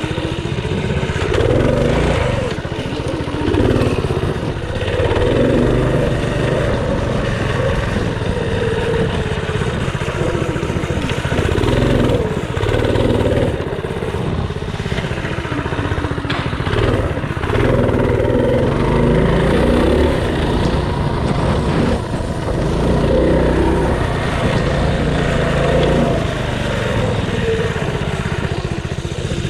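Mini bike's small engine being ridden hard, revving up and falling back over and over, a rise and fall every couple of seconds.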